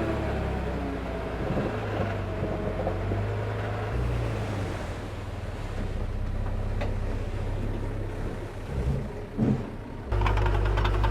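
Diesel engine of heavy earthmoving equipment running steadily, its pitch rising and falling a little at first. About ten seconds in the sound jumps louder, with rapid metallic clatter over the engine.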